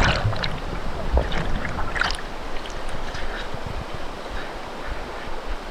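A person thrashing and splashing in a fast river after falling in while wading. Sharp splashes come in the first two seconds, then settle into the steady rush of the current with a few small splashes.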